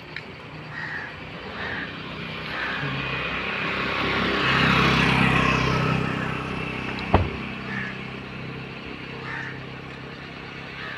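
A motor vehicle passes by, its engine and road noise swelling to a peak about five seconds in and then fading. There is a single sharp click a couple of seconds later.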